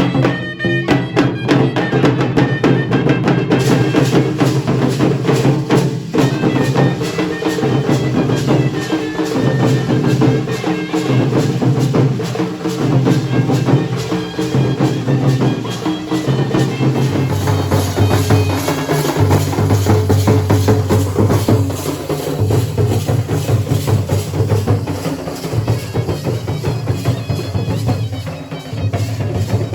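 Dhol and nagada drums beaten in fast, continuous strokes, over a sustained pitched melody line.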